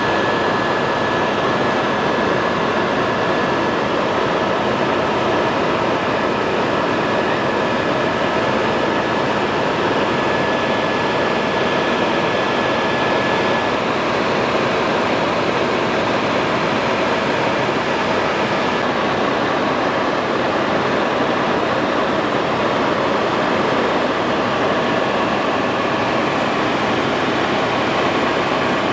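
Helicopter engine and rotor noise heard from inside the cabin in flight: a loud, steady drone with a thin high whine that fades about halfway through.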